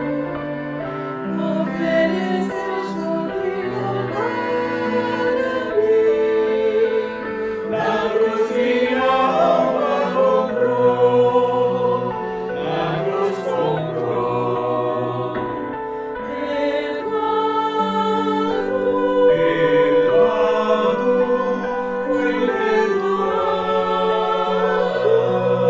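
Church choir singing in harmony, holding long notes.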